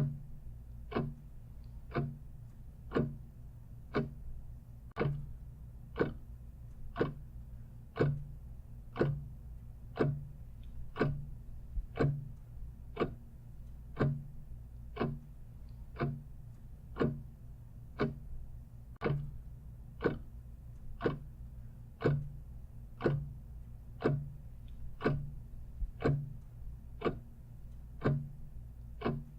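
Clock ticking steadily, about one tick a second, over a faint steady low hum.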